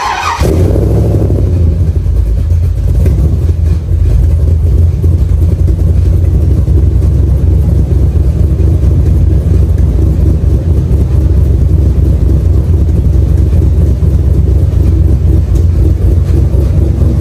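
Infiniti G35's engine running at a steady, even speed, a loud low drone that comes in suddenly at the start and holds level throughout.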